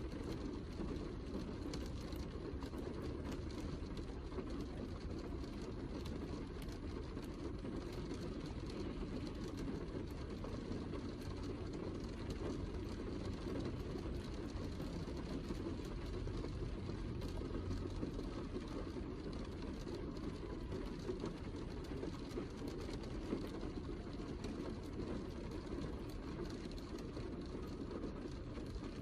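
Heavy rain falling steadily, a dense patter of drops over a low rumble.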